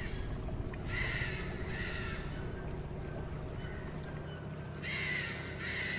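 A bird calling in two pairs of short calls, the first pair about a second in and the second near the end, over a steady rainforest background.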